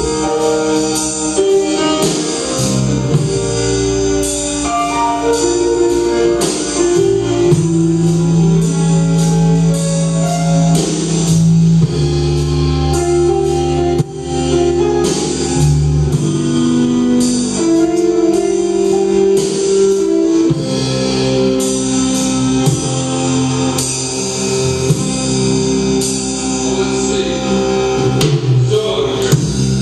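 A rock band playing a song live, with guitars, keyboard and a drum kit keeping a steady beat.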